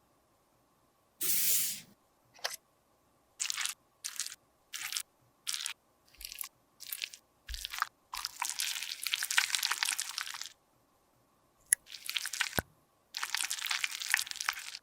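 Crisp crunching and scraping of a makeup product being worked by hand during a repair: a string of short strokes about one every 0.7 s, then two longer runs of continuous crunching, with a couple of sharp clicks between them.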